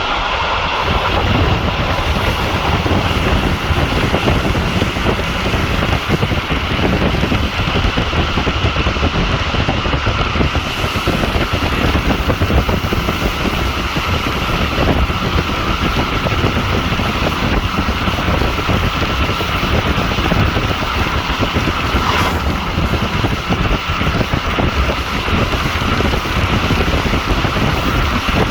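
Regional passenger train running at speed, heard from aboard: a steady rumble of wheels on the track with a rushing wind noise over it, and a brief sharper sound about two-thirds of the way through.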